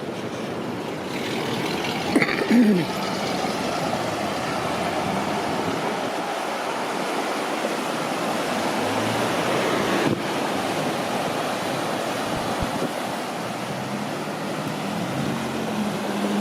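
Passing road traffic: a steady rush of tyres and engines, with one vehicle going by loudly about two seconds in, its engine note falling as it passes.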